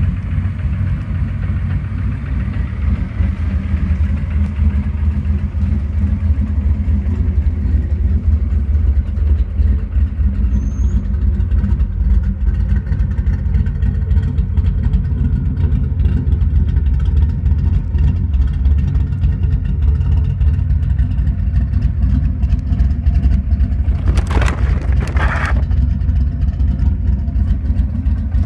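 Pontiac Trans Am's 355 cubic-inch small-block V8 idling steadily through its exhaust. A brief rush of noise comes near the end.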